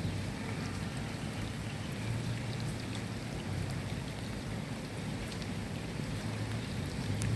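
Steady rain falling, a continuous hiss with scattered individual drop ticks, over a low rumble that swells slightly now and then.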